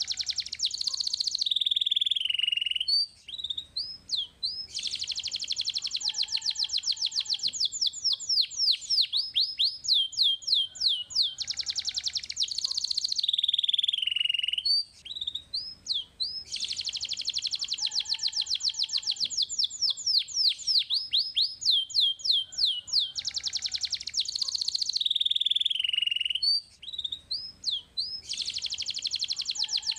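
Domestic canary singing: long rolls of fast repeated high notes, with swooping notes between them and brief pauses about three, fifteen and twenty-seven seconds in. The same song phrase comes round again about every twelve seconds.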